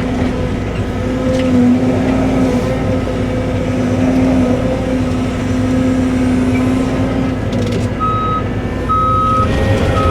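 Cat 313 excavator's diesel engine running steadily under load. About eight seconds in, its travel alarm starts beeping about once a second, the sign that the machine is moving on its tracks.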